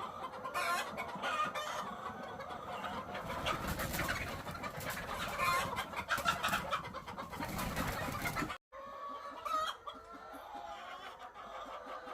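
A flock of egg-laying hens clucking, many calls overlapping. The sound drops out abruptly for an instant about eight and a half seconds in, then the clucking resumes more quietly.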